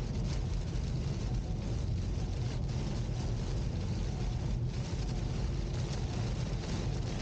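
Steady low rumble and hiss of a car in a heavy rainstorm.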